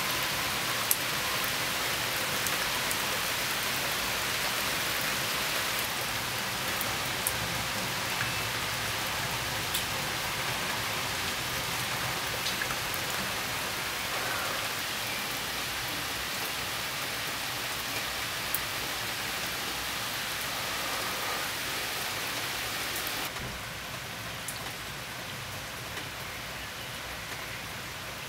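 Steady rain falling, with a few sharp ticks of single drops standing out. About three-quarters of the way through it drops a little quieter.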